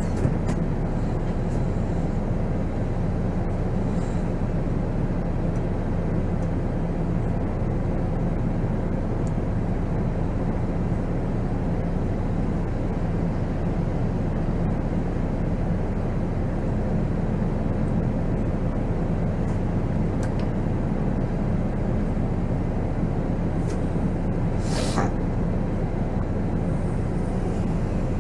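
Volvo B7R tour bus's diesel engine running steadily, heard from the driver's seat, with a short hiss of air near the end, such as the air brakes venting.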